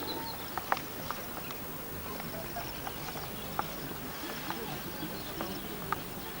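Steady background noise with faint, short high chirps and a few sharp clicks, the loudest about a second in.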